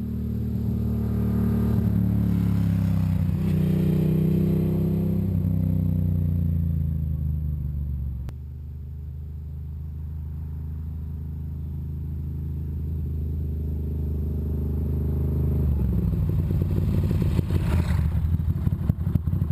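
1997 Ducati Monster 750's air-cooled V-twin through a Danmoto carbon-fibre slip-on exhaust, pulling up in pitch and easing off. It then holds a steady note, and in the last few seconds falls to a rough, choppy burble as the revs drop.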